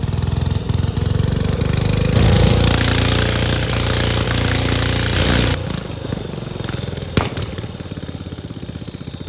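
Cub Cadet lawn tractor engine running flat out with its governor wired open. It gets louder about two seconds in, drops back suddenly a few seconds later, and there is a single sharp crack near the end.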